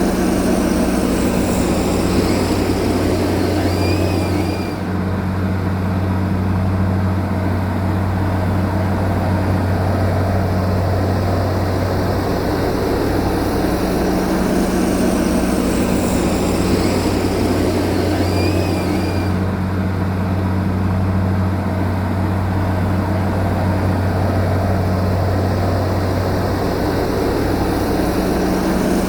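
Heavy diesel engine of an earth-moving machine running steadily, a constant low drone with a deep hum.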